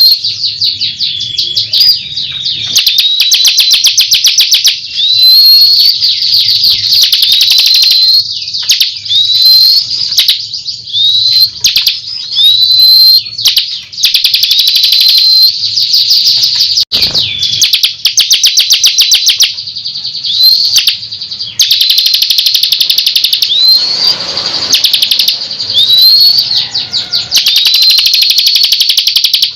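Bar-winged prinia (ciblek) singing vigorously and without a break: fast, buzzy trills of rapidly repeated high notes, broken about every second or so by a short upward-slurred whistle.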